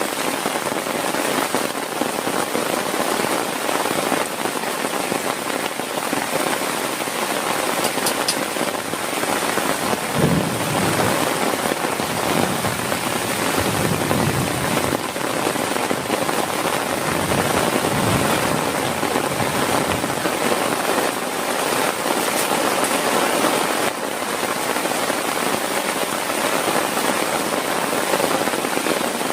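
Heavy rain falling steadily. About a third of the way in, a sharp clap of thunder is followed by low rolling rumble for several seconds.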